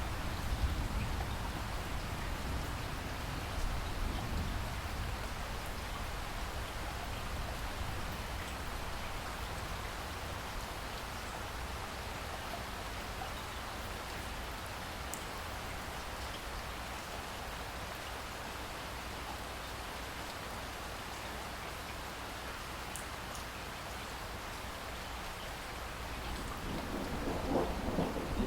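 Steady heavy rain hissing on surfaces, with a deep rumble of thunder dying away in the first few seconds and a new roll of thunder building near the end.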